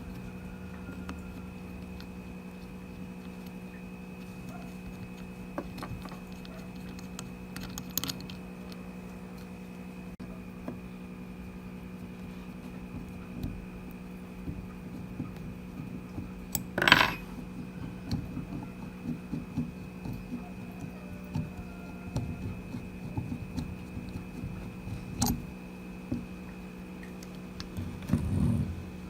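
Small metal parts clinking and tapping on a hard surface as they are handled, over a steady electrical hum, with one louder knock partway through and a run of knocks near the end.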